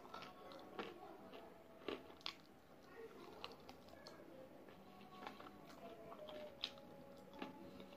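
Close-up eating sounds of spicy sauced fried chicken wings being torn apart by hand and chewed: a string of separate short crunches and clicks at uneven intervals.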